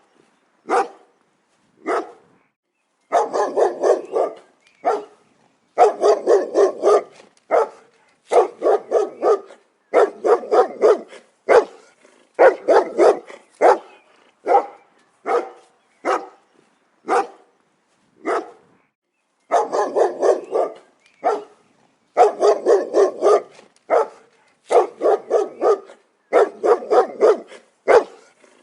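A dog barking: single barks and quick runs of several barks in a row, with short silent gaps between.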